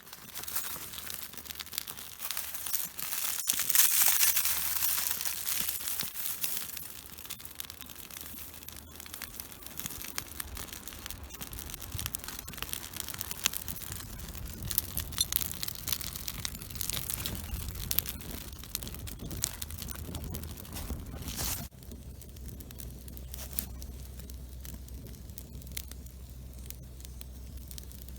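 Dry birch bark and twigs crackling and tearing in a rapid run of sharp snaps over a hiss. It is loudest a few seconds in and eases after about twenty seconds.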